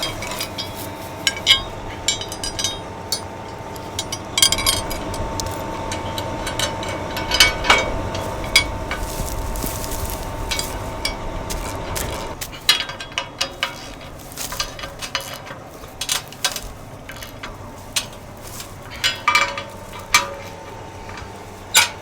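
Metal knocks and clinks of hand tools working on a tillage implement's point, as a snapped-off point is taken off and a new one fitted, over a steady hum that drops away about halfway through.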